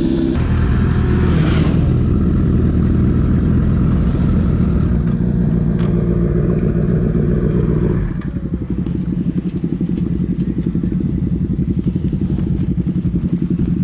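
Motorcycle engine running at steady low revs with some rushing air noise. About eight seconds in it drops to a lower, evenly pulsing idle.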